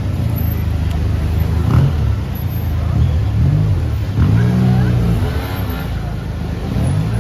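Street traffic: motor vehicle engines running close by, their pitch rising and falling as they speed up and pass, most clearly about four seconds in.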